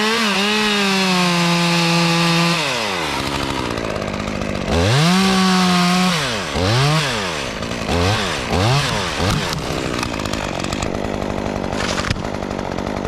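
Two-stroke chainsaw run at full throttle for about two and a half seconds, then dropped back. It is held high again for over a second, then blipped four or five times in quick short revs, and settles to a low idle for the last few seconds.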